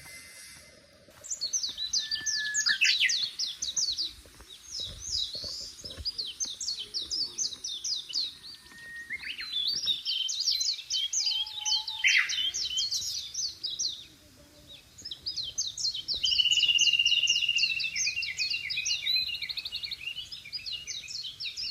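Songbirds singing: fast runs of high, sharply falling notes with short pauses, and a steady high trill about two-thirds of the way through.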